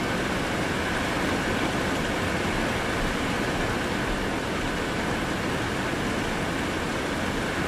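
Steady rain during a thunderstorm: an even rushing hiss with no thunderclaps.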